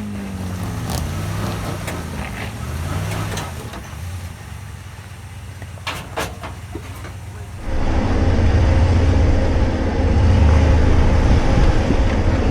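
Off-road 4x4 engine revving up and down as the vehicle crawls an obstacle, with a few knocks from the truck or rocks about six seconds in. Near the end it gets much louder and steadier, working hard under load while the tires spin in loose dirt and mud.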